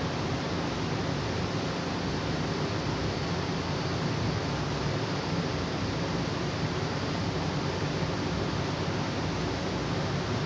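Steady, even rushing noise that does not change, with no separate strokes or events.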